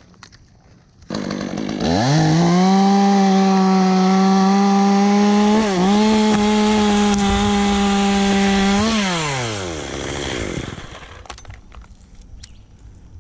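Chainsaw revving up about a second in and running at full throttle for several seconds, with one brief dip in speed midway, as it cuts through pine wood. Near the end it drops off the throttle and winds down.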